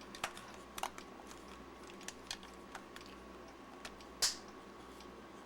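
Plastic case of a Sony NP-11 battery pack being cut and pried apart along its seam: scattered small clicks and crackles, with one louder sharp crack about four seconds in.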